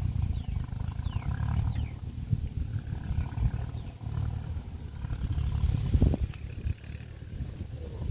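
Tractor engine running with a rough, uneven low rumble, with a sharper knock about six seconds in.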